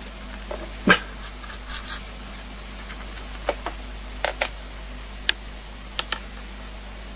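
A dog making a series of short, sharp sounds. The loudest, with a falling pitch, comes about a second in, and brief ones follow singly and in pairs.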